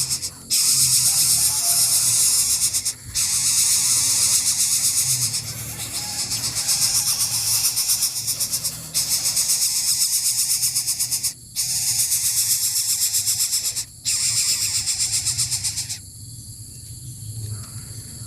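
Loud, high-pitched pulsing buzz of cicadas, broken by brief gaps a few times and stopping shortly before the end.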